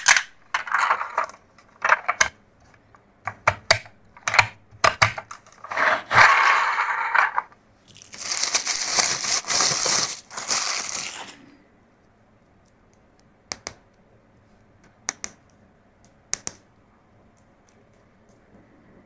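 Toy packaging being crinkled and torn open: bursts of crinkling, then a longer, harsher tearing sound about eight seconds in. After that come a few sharp clicks, a second or so apart.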